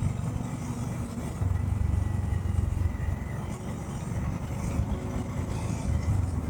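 Motorcycle running on the move: a steady low engine rumble that rises and falls in loudness.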